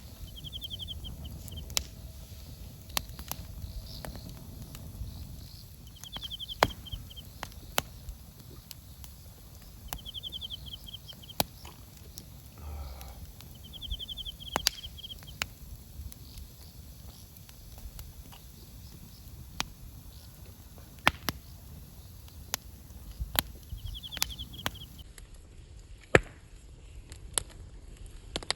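Campfire crackling, with irregular sharp pops from the burning wood. A bird repeats a short, rapid, high trill every few seconds.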